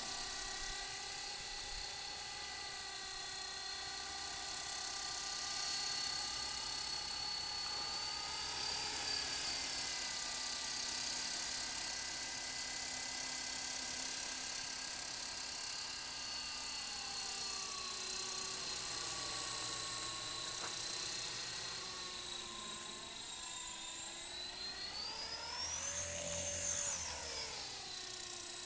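Small electric RC helicopter, a Walkera LM3, in flight: a high whine of its electric motors and spinning rotors. The pitch holds steady at first, then sags and climbs back as the throttle changes, with a quick surge about three-quarters of the way through.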